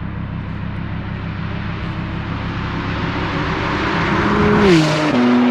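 Modified Porsche 911 Turbo S twin-turbo flat-six accelerating toward and past, the engine note rising slowly in pitch and growing louder. About four and a half seconds in, at its loudest, the pitch drops sharply as the car goes by with a burst of hiss, then a loud steady note holds.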